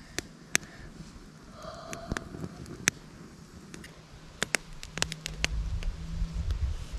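Irregular sharp clicks and snaps of small dry sticks being broken and laid on a campfire pit. A low rumble joins in from about five seconds in.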